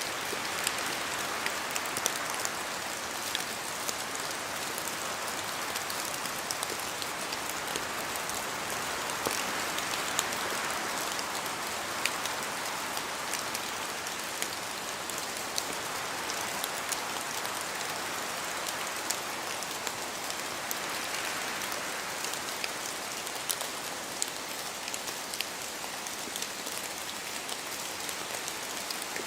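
Steady rain in a forest, with many individual drops pattering from the trees and slow swells of wind gusting through every several seconds.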